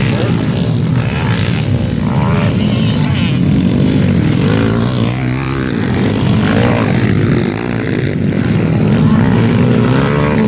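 Several underbone motorcycle engines racing, revving up and down over one another with the pitch rising and falling continuously.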